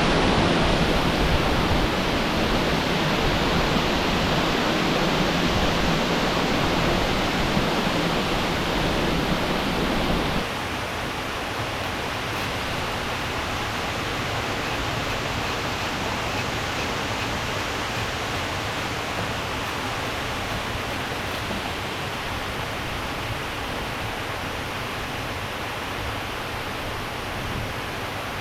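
Waterfall and rapids rushing in a steady roar. About ten seconds in, it drops suddenly to a quieter, thinner rush with less low rumble.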